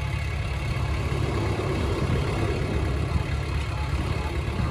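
Heavy diesel engine of earthmoving equipment running steadily with a low hum.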